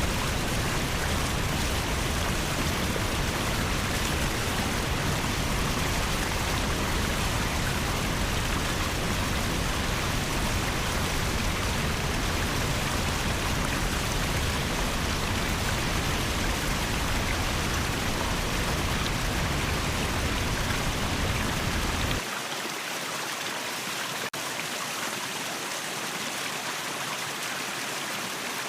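Waterfall water rushing in a steady dense hiss with a deep rumble under it. About 22 seconds in the rumble cuts out abruptly, leaving a lighter, thinner rush of water.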